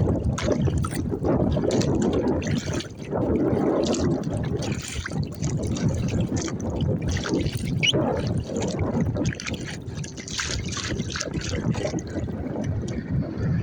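Water splashing and trickling around a small sit-in kayak out on choppy open water, in irregular splashes. A low wind rumble on the microphone runs underneath.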